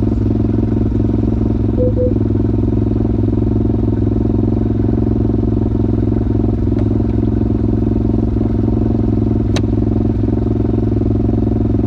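Pit bike's single-cylinder engine running steadily at an unchanging engine speed, with no revving. A single sharp click about three-quarters of the way through.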